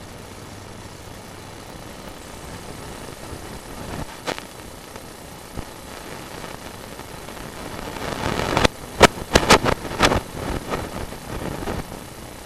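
Sewer inspection camera rig with a steady hum, then a cluster of sharp knocks and clicks between about eight and eleven seconds in, typical of the camera's push cable and head knocking along the drain pipe.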